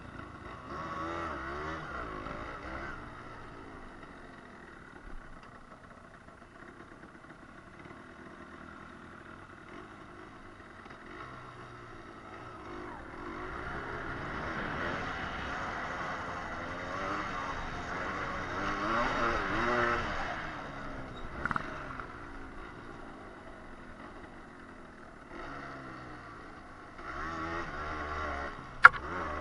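Yamaha 125 cc single-cylinder trail motorcycle engine pulling up an off-road climb in first gear, its revs rising and falling with the throttle, loudest partway through. A single sharp knock near the end.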